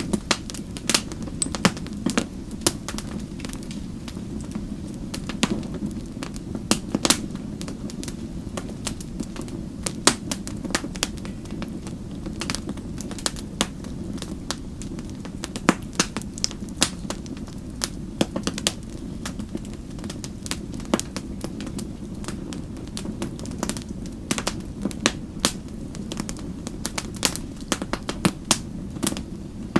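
Wood fire burning with irregular crackles and a few sharper pops over a steady low rumble of flame.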